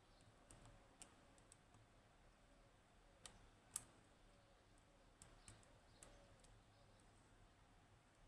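Near silence with faint, scattered small clicks of a lock pick working the pins of a Yanai high-pin-count lock under tension. The loudest click comes just before four seconds in.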